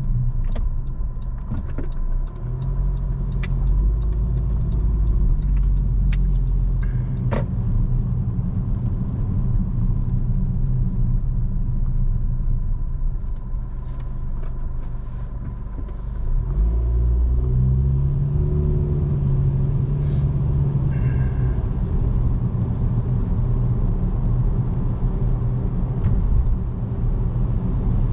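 Car engine and road rumble heard from inside the cabin while driving. It eases off, then the engine note rises as the car speeds up again about 17 seconds in, with a few scattered light clicks.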